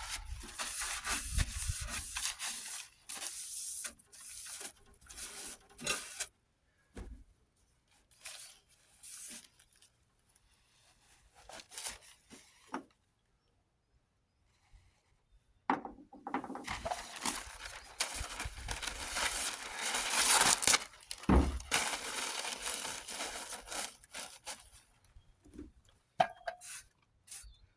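Wiping down a sanded truck body panel with Windex, cleaning it before primer. There are two spells of rubbing, a shorter one at the start and a longer one from about the middle to near the end, with a quieter stretch between.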